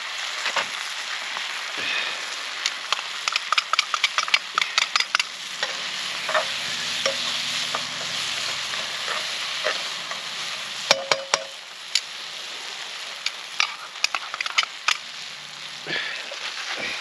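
Parmesan cream sauce sizzling in a frying pan while a utensil stirs it. Frequent light clicks and scrapes of the utensil against the pan, and a short ringing clink about two-thirds of the way through.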